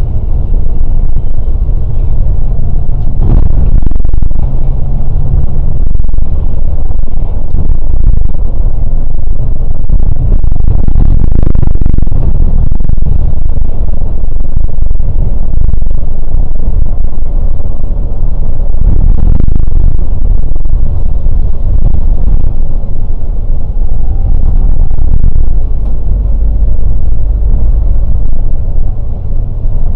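Scania K410 coach travelling on the road: a loud, steady engine and road rumble, heaviest in the low end.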